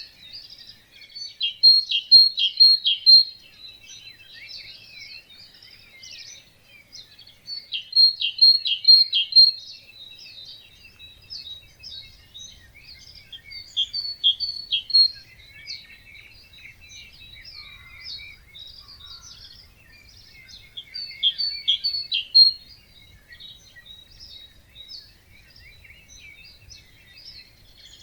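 Many songbirds singing together in a dawn chorus. One bird close by repeats a short, loud song of four or five quick notes four times, about every six seconds.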